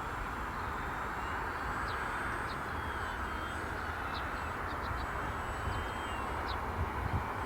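Outdoor ambience: a steady hiss with wind rumbling on the microphone, and a few brief high chirps.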